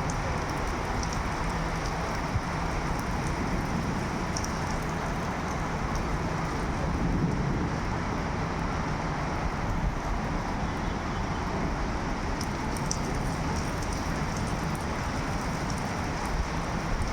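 Steady rain falling, an even hiss with a low rumble beneath and a few sharp drop ticks now and then.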